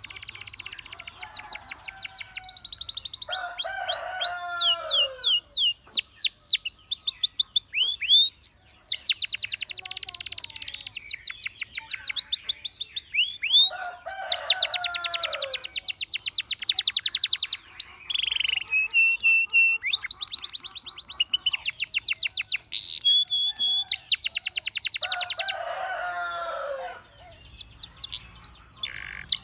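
Canary singing long phrases of fast trills and rapidly repeated notes, with a few short pauses between phrases. A lower, falling run of notes cuts in about every ten seconds.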